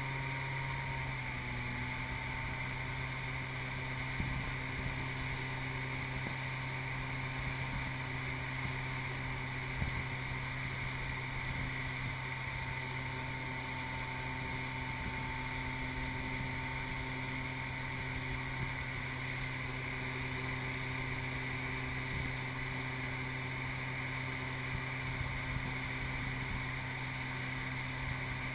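Tow boat's engine running steadily at a constant pull, with a steady drone and a little wind and water noise on the microphone.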